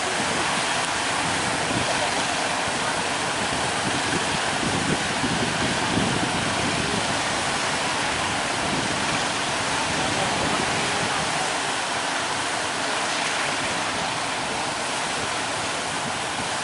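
Steady roar of heavy ocean surf breaking.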